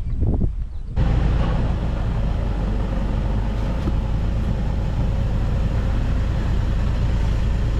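A motor vehicle driving along, a steady engine hum with road noise. It starts abruptly about a second in, after a brief snatch of voices.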